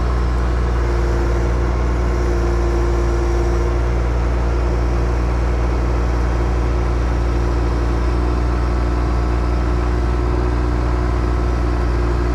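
Mini excavator's diesel engine running steadily under the operator's control, with a higher steady whine coming in about a second in, dropping away near four seconds and returning near the end as the machine is worked.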